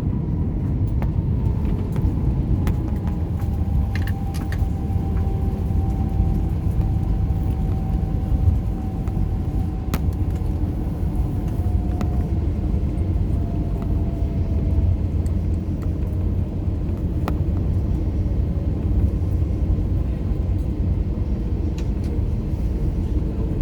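Airbus A321 cabin noise: a steady low rumble with an engine whine slowly falling in pitch as the airliner rolls out and slows after touchdown, plus scattered light clicks and rattles from the cabin.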